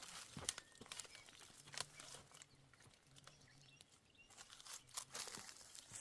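Sheep grazing close by: irregular crunching and tearing as grass is bitten off, with a quieter spell in the middle.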